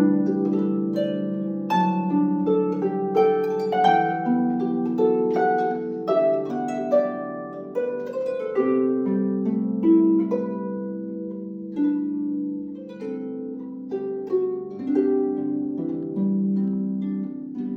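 Solo harp playing a melody over sustained lower notes, the plucked strings ringing on and overlapping.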